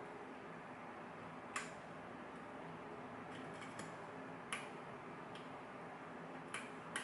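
A lock pick and tension wrench working in the keyway of a clamped challenge lock: a few sharp, scattered metal clicks over a faint steady hiss.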